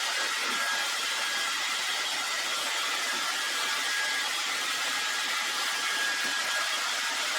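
Handheld hot-air blower running steadily, a rush of air with a thin high whine over it, used to soften the bike's stickers so they peel off.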